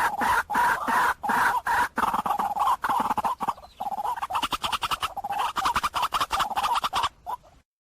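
White-breasted waterhen calling over and over: loud, harsh notes about three a second, then a faster stuttering chatter, breaking off just before the end.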